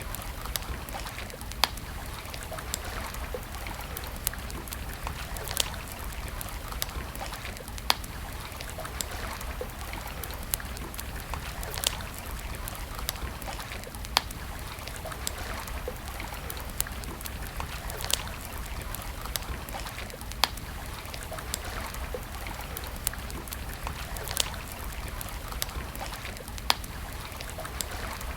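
Campfire crackling, with sharp pops at irregular intervals of a second or two over a steady rushing hiss.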